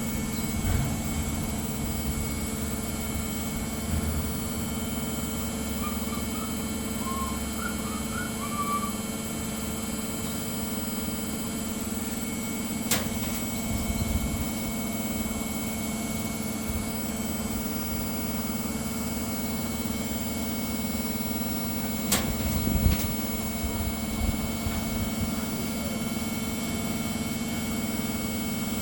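Samsung ecobubble washing machine running with a steady motor hum and low rumble. There are a few short sharp clicks or knocks partway through.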